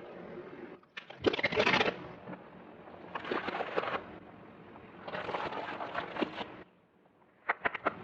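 Car tyre crushing brittle objects: four separate bursts of cracking and crunching, the loudest about a second in, and a few sharp cracks near the end.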